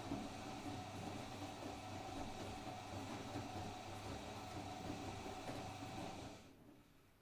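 Blomberg WAG Vario P washing machine running, a steady motor and drum hum that dies away quickly a little over six seconds in.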